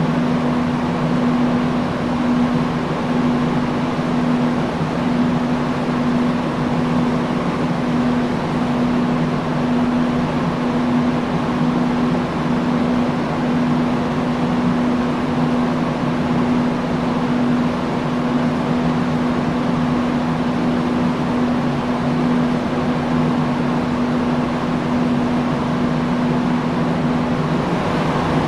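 Industrial fan running steadily: a constant rush of moving air with a steady low motor hum.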